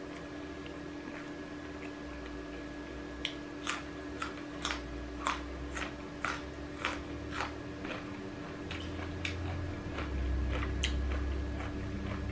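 A person chewing a mouthful of food close to the microphone, with sharp mouth smacks about once or twice a second through the middle of the stretch, over a steady low hum. A low rumble grows louder in the last few seconds.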